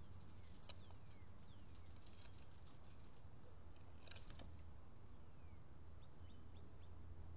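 Birds at a backyard feeder: a few faint, short downward-sliding call notes and scattered light clicks and taps, with a cluster of clicks about four seconds in, over a steady low hum.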